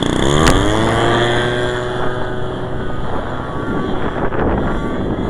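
Giant-scale RC airplane's 30cc gasoline engine, a converted Homelite string-trimmer engine, flying past: its pitch drops as it goes by, holds, then fades away. Wind buffets the microphone throughout, with a sharp click about half a second in.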